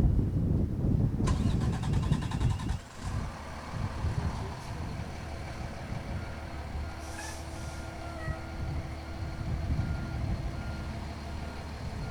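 A fire engine's diesel engine running with a heavy low rumble as the truck is backed into the station, its reversing alarm beeping steadily about twice a second from about halfway through.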